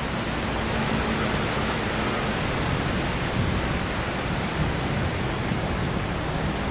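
Steady rushing of flowing water, an even hiss with a low rumble beneath it.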